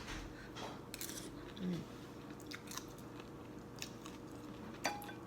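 Someone chewing and eating, with scattered light clicks and knocks, a short murmur about two seconds in, and a sharper click near the end.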